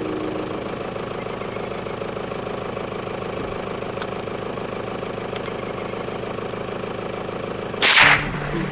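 Dirt bike engine running steadily, with one loud, sudden bang nearly eight seconds in.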